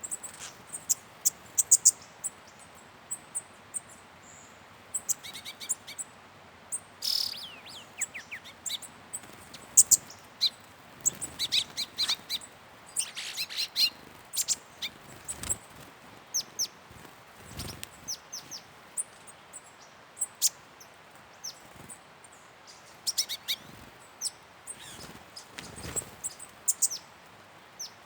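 Wild birds calling, many short, high chirps and whistled notes from several directions at an irregular pace, some coming in quick runs.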